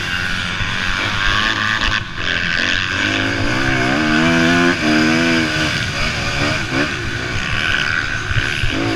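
Motocross bikes racing, several engines revving up and down together. One engine is loudest through the middle, its pitch wavering rapidly as the throttle is worked.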